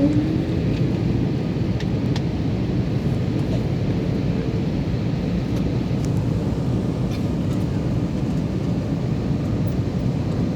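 Steady rumble of a passenger airliner's engines and airflow, with a brief short tone right at the start.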